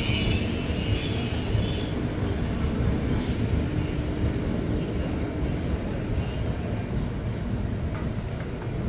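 Express passenger train running, heard from aboard a coach: a steady low rumble of wheels on the track.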